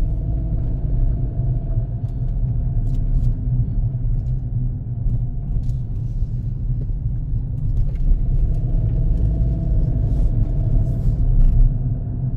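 Car on the road: a steady low rumble of engine and tyre noise, with a few faint clicks.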